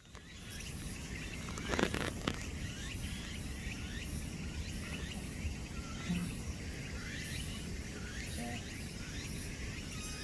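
Outdoor ambience: insects calling in repeated high-pitched pulses over a steady low rumble, with scattered short bird chirps. Two sharp knocks sound about two seconds in.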